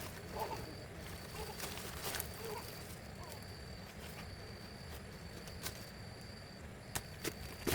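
Insects trilling in a high, steady tone that cuts in and out, with a few faint short voice-like sounds in the first couple of seconds and three sharp knocks near the end.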